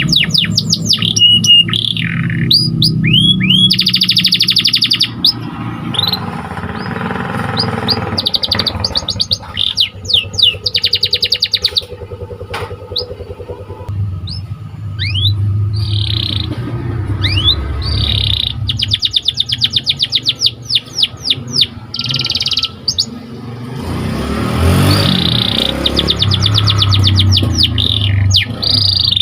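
Domestic canary singing: rapid buzzing trills alternating with quick falling chirps, over a steady low hum.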